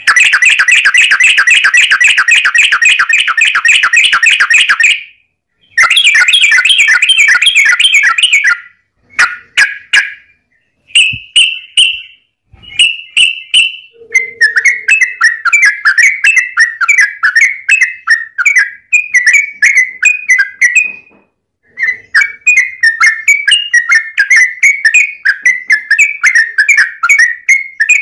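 Yellow-vented bulbul (trucukan) singing long, rapid chattering runs of bubbly notes (the "ropel panjang" song), broken by short pauses, then steady series of quick warbled phrases.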